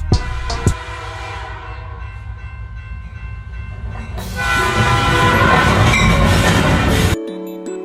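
Train horn blowing over the rumble and rail noise of a passing train, growing much louder about four seconds in. The sound cuts off abruptly near the end.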